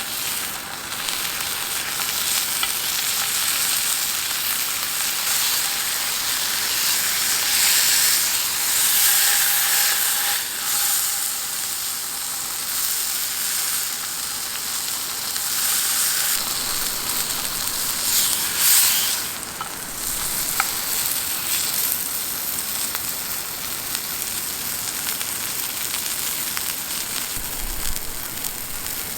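Beef sizzling as it sears in a pan over a campfire: a steady frying hiss that swells louder twice, about a third of the way in and again past the middle.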